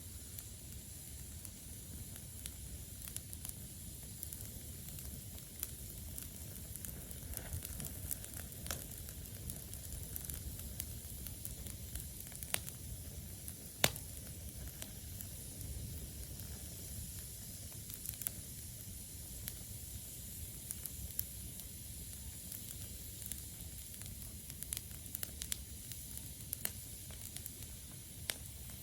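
Campfire of damp wood burning: a steady hiss with scattered crackles and pops, the loudest single pop about halfway through.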